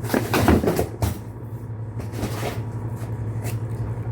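Rustling and clatter of kitchen things being handled, loudest in the first second with a shorter rustle about two and a half seconds in, over a steady low hum.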